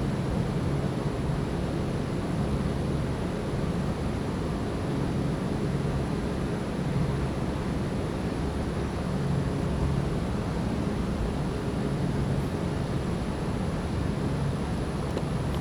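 Thunderstorm rain and gusty wind, a steady hiss with a low rumble of wind on the microphone that swells and eases every few seconds.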